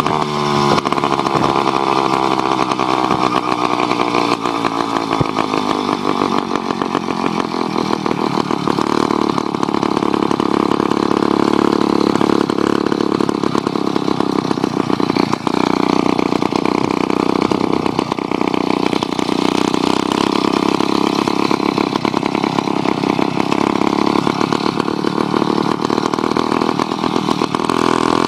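66cc Skyhawk two-stroke bicycle engine kit running under way. It revs up sharply right at the start, its pitch then slowly falls over several seconds, and it holds fairly steady for the rest of the ride.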